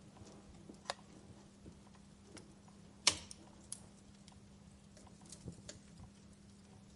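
Wood fire crackling in a fireplace: scattered sharp snaps and pops at irregular intervals, with one loud pop about three seconds in.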